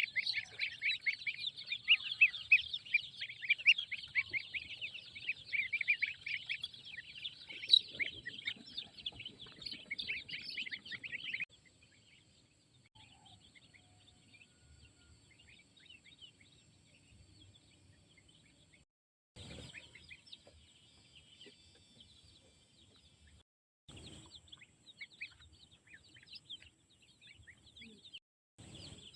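Chickens calling: a dense run of rapid, high chirps for roughly the first eleven seconds, then fainter, scattered calls.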